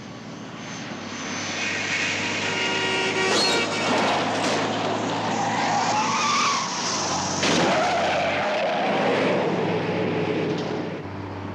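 Car-chase sound effects: car engines running hard at speed with tyres squealing in wavering pitches, and a sudden bang about seven and a half seconds in.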